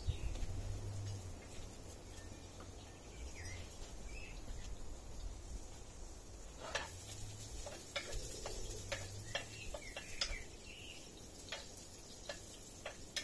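Quiet outdoor ambience with birds chirping now and then; from about halfway, a run of sharp, irregular clicks and pops.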